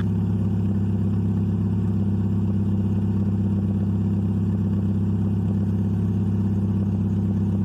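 Daewoo Lanos 1.6-litre 16-valve four-cylinder engine idling steadily, with a fast even pulse.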